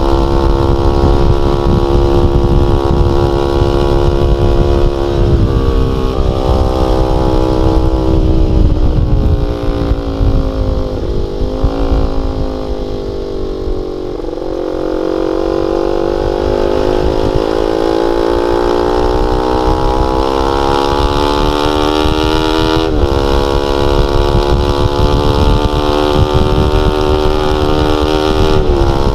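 Honda Sonic 150R's single-cylinder four-stroke engine through a CLD X Monster aftermarket exhaust with a half baffle, under way at high revs. The pitch drops sharply about five seconds in, a little past twenty seconds and again near the end, like upshifts, and falls off near the middle before climbing slowly as it pulls again.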